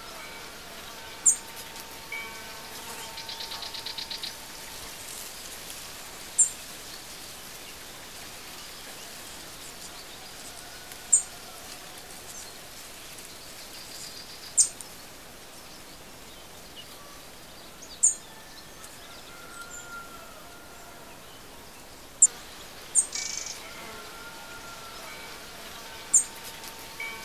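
Outdoor nature ambience: a steady soft hiss with birds chirping. Short, sharp high chirps come every few seconds, and a brief buzzing trill sounds about three seconds in.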